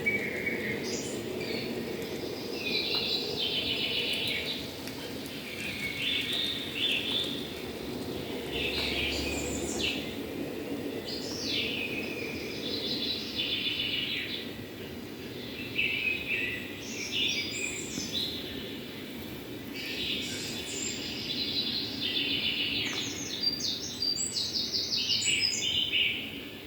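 Songbirds singing and calling in a string of short chirps and trills, over a steady low background noise.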